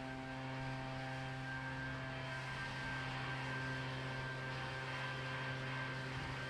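Small gas engine of lawn equipment running steadily with an even drone, its hissing air noise growing a little stronger about two seconds in.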